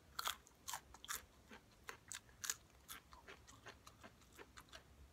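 Okra pod bitten and chewed close to the mouth: a run of crisp, wet crunches about two a second, fading to softer chewing clicks in the last couple of seconds.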